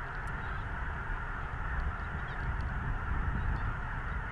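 Massed calling of a huge feeding flock of snow geese, hundreds of thousands of birds blending into one dense, steady din.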